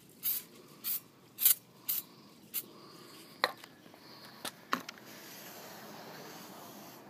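Aerosol can of brake cleaner sprayed in five short bursts over about three seconds onto a new brake rotor, stripping off its corrosion prevention compound. A few sharp clinks follow, then a faint steady hiss.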